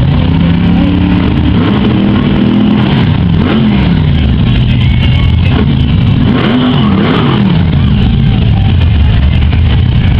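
Hot rod engines running with a constant low rumble, with throttle blips that rise and fall in pitch in the first few seconds and again about six seconds in.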